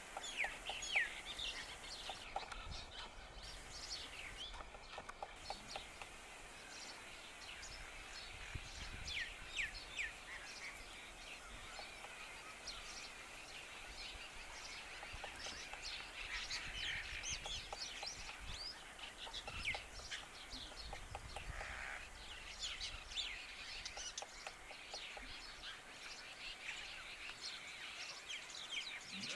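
Many birds chirping and calling, with faint runs of quick tapping from a black-rumped flameback woodpecker pecking at bark.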